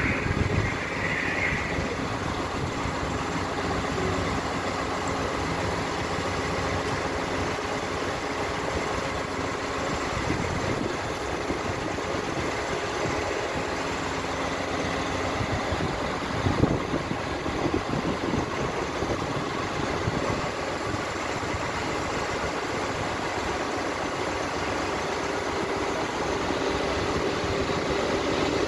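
Steady mechanical hum and rumble, like an idling engine, with one thump just past halfway. Near the end it grows louder as an SNCF AGC regional train approaches the platform.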